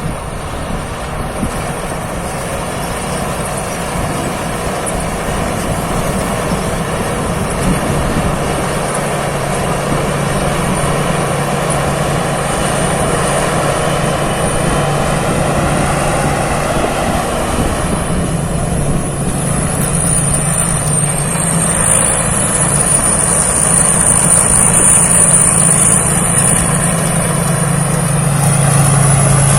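Rice combine harvester running steadily while harvesting, a continuous engine hum with a thin high whine above it, growing gradually louder.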